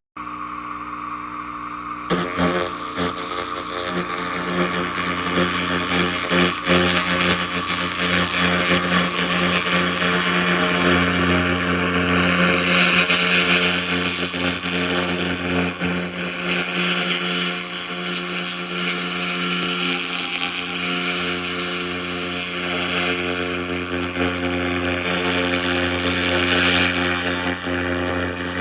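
SFX 2000 laser rust remover running: a steady machine hum under the crackling hiss of the beam ablating rust off metal. The hiss swells and fades as the beam works, loudest about midway and near the end.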